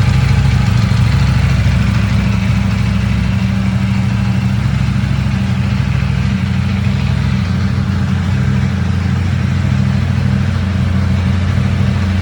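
2019 Ducati superbike engine idling steadily.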